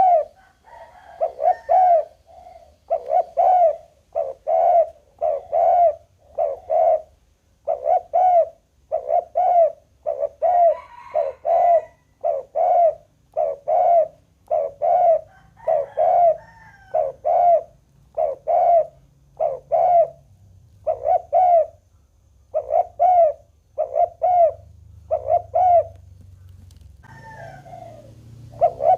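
Spotted dove cooing over and over, short low coos about one a second in runs with small pauses, and a longer pause near the end.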